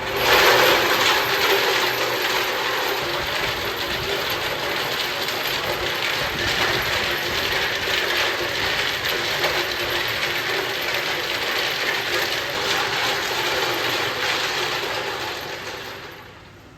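Workshop machine running with a dense metallic clatter. It starts abruptly, holds steady, and winds down near the end.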